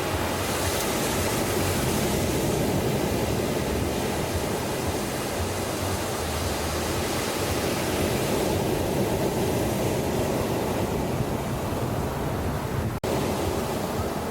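Ocean surf breaking on a beach: a continuous rush of waves that swells and eases, with a sudden brief dropout in the sound near the end.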